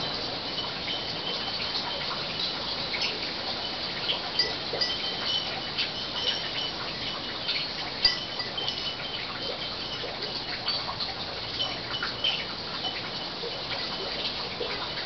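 Small birds chirping: short high chirps scattered throughout over a steady outdoor hiss, with one sharp click about eight seconds in.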